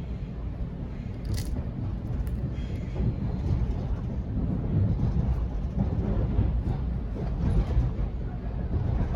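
Sydney Trains Waratah electric train running, a steady low rumble of wheels and track that grows a little louder about three seconds in.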